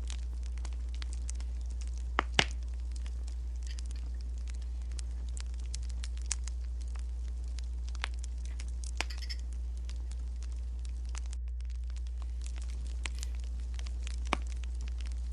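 Wood fire crackling: scattered small pops and snaps over a steady low hum, with two sharper snaps about two seconds in and another near the end.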